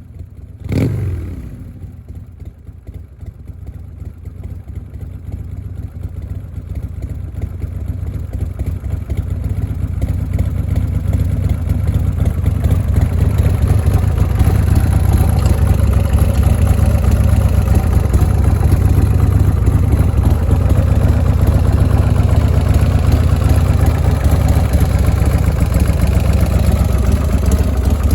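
Buell motorcycle engine running: a quick throttle blip under a second in, then steady running that grows gradually louder over the first dozen seconds and holds steady after that.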